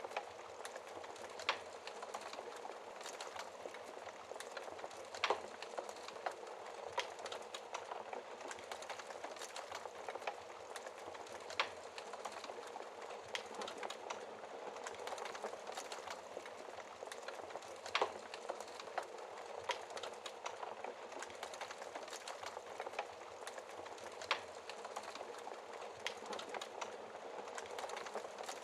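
Wood fire burning in a fireplace: a steady hiss of flames with irregular crackles and a few sharper pops from the burning logs.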